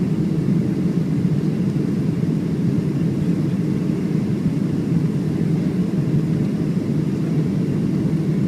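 Steady low cabin rumble of a Boeing 737-700 in flight: engine and airflow noise heard from inside the passenger cabin, with no change in level.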